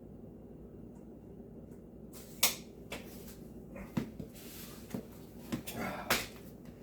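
Several knocks and clacks with some rustling, of wood and tools being handled and set down. They start about two seconds in, and the loudest is a single sharp knock just after that.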